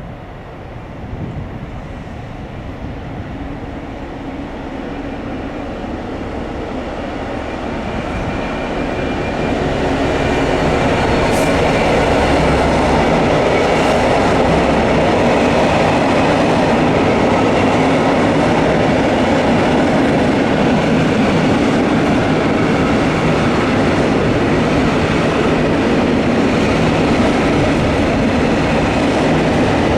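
Diesel-hauled freight train approaching and passing, growing louder over about the first ten seconds, then its wagons rolling past steadily.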